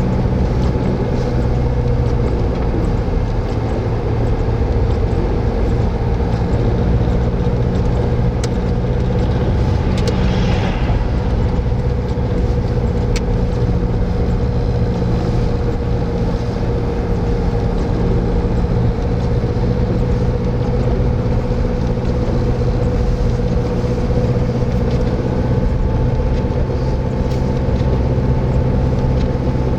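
A moving vehicle's engine and road noise: a steady, even drone with a constant hum, and a brief hiss about ten seconds in.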